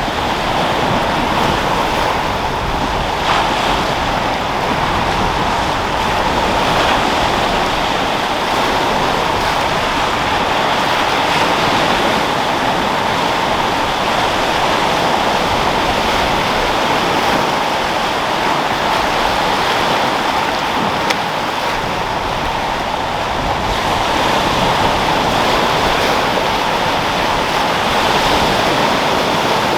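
Sea waves washing and breaking in a steady rush of surf, swelling slightly every few seconds, with wind.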